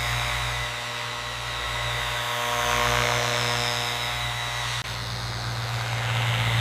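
Power tool motor running steadily: a low hum under a hiss, with a brief break about five seconds in.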